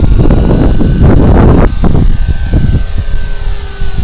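Gusty wind buffeting the microphone with heavy, uneven rumbling, loudest about a second in, over the faint steady whine of a Walkera Lama 3 coaxial electric RC helicopter's motors and rotors.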